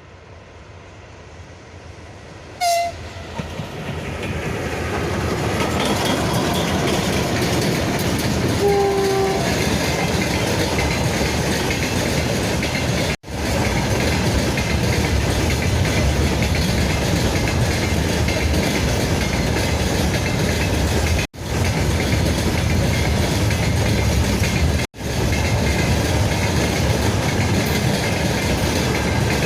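Freight train passing behind a VL11 electric locomotive: a short horn toot, another about six seconds later, then a loud steady rumble with the clickety-clack of wagon wheels over rail joints as the train rolls by.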